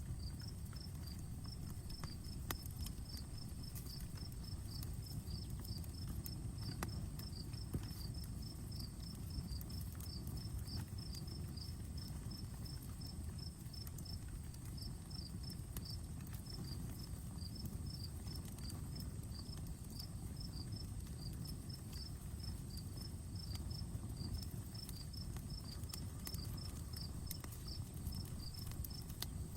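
Outdoor wood fire burning with a low steady rumble and a few sharp crackles, while an insect chirps in a fast, even series of short high chirps.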